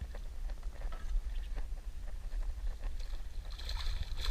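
Wind rumbling on the microphone over a fishing kayak, with scattered small knocks and a short splashing hiss near the end.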